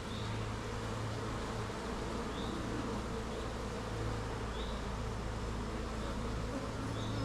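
Many honeybees buzzing steadily around an opened hive: an aggressive, stirred-up colony.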